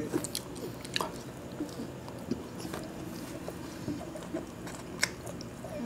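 Close-miked chewing of soft khichuri by hand, with scattered faint wet mouth clicks and smacks.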